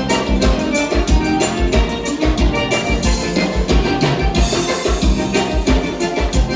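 Live Brazilian gaúcha dance band playing an instrumental passage: accordion melody over bass and drum kit, with a steady beat of bass-drum hits.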